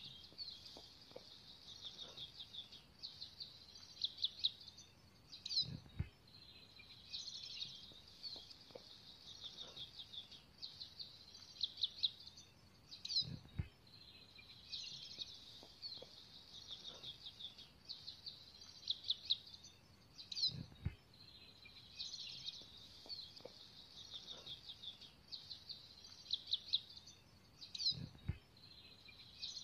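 Small birds chirping and trilling in quick high notes. The same stretch of song repeats about every seven seconds, with a low thud at the same point in each repeat.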